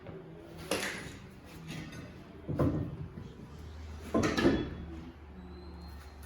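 Three knocks and clunks of parts or tools being handled, the second and third loudest. A low steady hum sets in about two-thirds of the way through.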